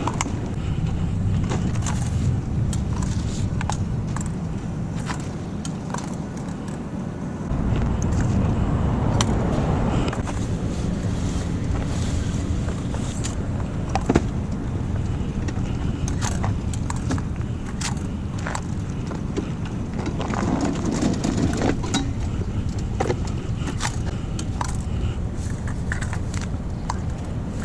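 Low, steady rumble of vehicles in a parking lot, swelling as cars pass about a third of the way in and again past the middle, with scattered light clicks and rustles throughout.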